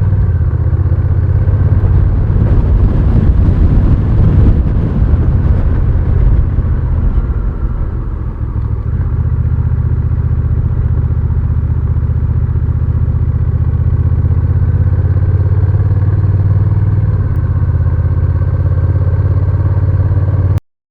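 Honda Rebel 1100's parallel-twin engine running steadily, with a rushing noise over it that is louder for a few seconds near the start. It cuts off abruptly just before the end.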